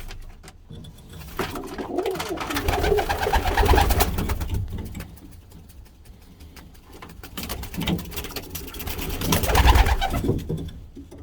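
Domestic pigeons cooing in two long bouts, one starting about two seconds in and the other about seven seconds in.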